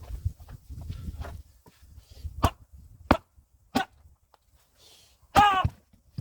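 Hand axe chopping firewood, played at double speed: three sharp strikes on the wood about two-thirds of a second apart, each with a short ring, then near the end a brief, loud voice-like cry.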